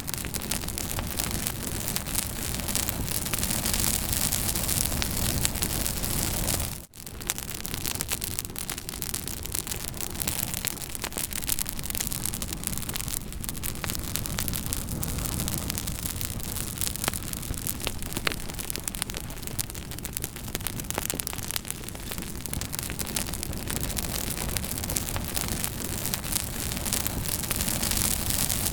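Campfire burning: a steady hiss of flames with many sharp crackles and pops from the wood. The sound drops out for a split second about seven seconds in.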